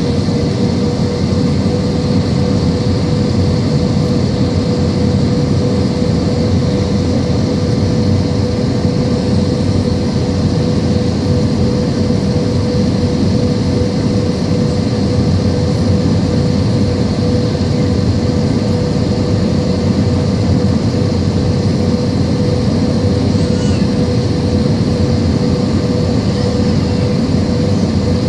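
Steady drone of an Airbus A320-232 in flight: engine and airflow noise that holds unchanged, with a steady humming tone running through it.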